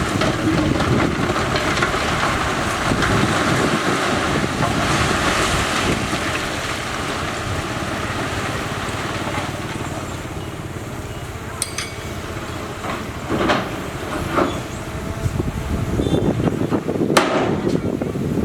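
Heavy earthmoving machinery running steadily, with wind on the microphone, and a few sharp knocks in the second half.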